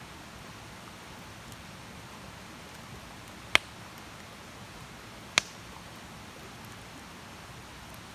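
Campfire burning with a low steady hiss and a few faint crackles, broken by two sharp, loud pops about two seconds apart in the middle.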